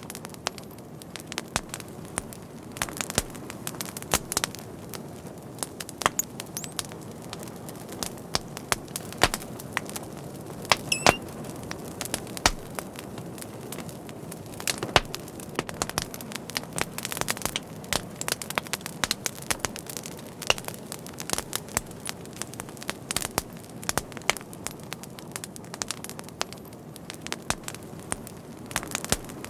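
Wood fire burning steadily with a low rushing sound and frequent irregular sharp pops and crackles. A brief faint whistle comes about eleven seconds in.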